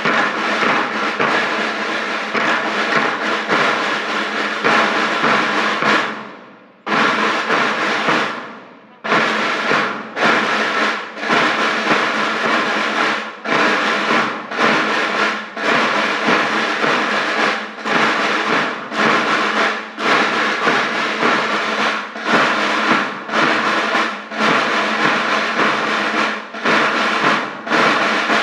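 School band playing: sustained wind notes over drums. The sound dies away briefly twice, around the seventh and ninth seconds, then moves in a steady beat about once a second.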